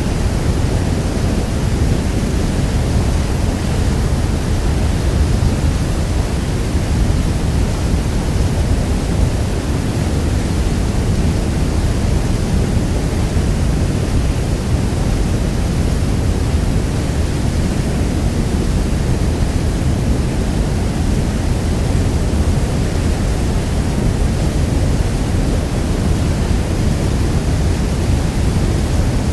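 Niagara Falls: a huge volume of falling water rushing steadily, a constant deep wash of noise with no breaks or changes.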